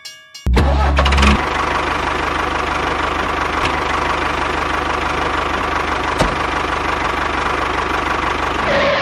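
An engine running steadily with a fast, even chugging pulse. It starts abruptly about half a second in, is louder for its first second, and cuts off suddenly at the end.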